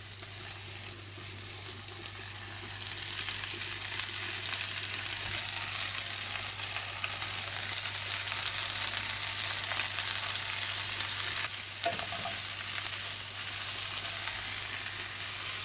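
Onions and garlic sizzling in hot sesame oil in a frying pan, with stirring. Moringa leaves are added, and the sizzle grows a little louder a couple of seconds in.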